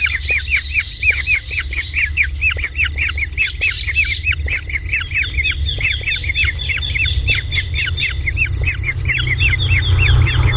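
A bird calling in a rapid, unbroken series of short, sharp notes, about four a second. High above it an insect trills with a steady pulse that drops out for a few seconds partway through, over a steady low rumble.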